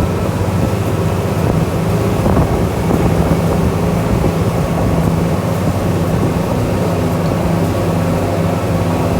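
Glass-bottom tour boat's engine running at a steady pitch, a constant low drone.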